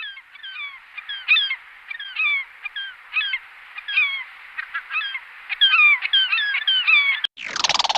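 A flock of birds calling: many short, sweeping calls overlapping at irregular intervals, with a faint hiss behind them. Near the end it cuts suddenly to a louder, rapidly pulsing raspy call.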